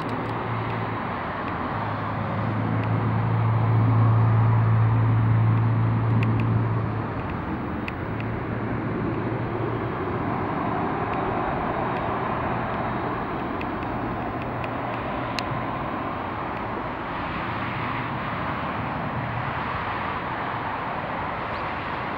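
Continuous roar of airliner jet engines, with a low hum that swells to its loudest from about three to seven seconds in.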